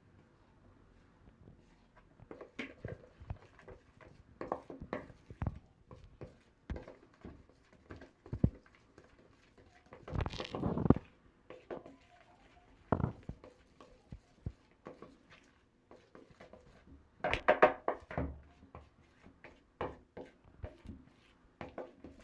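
A spoon mixing a thick batter in a bowl as flour is worked in: irregular knocks and scrapes against the bowl, with two longer, louder spells of stirring partway through and near the end.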